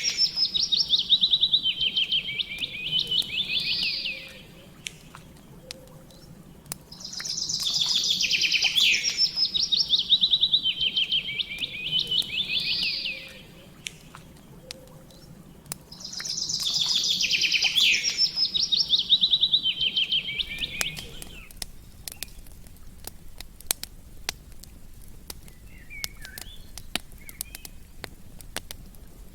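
A songbird repeating a trilled song three times, each phrase about five seconds long and stepping down in pitch, over the scattered small pops and crackles of a campfire. The bird falls silent about two-thirds of the way through while the crackling carries on.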